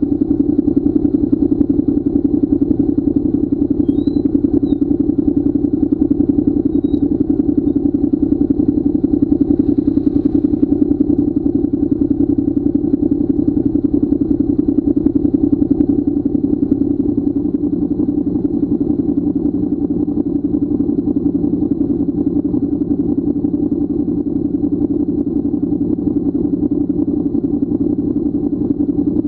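Motorcycle engine running steadily at a constant pitch, with no revving or gear changes.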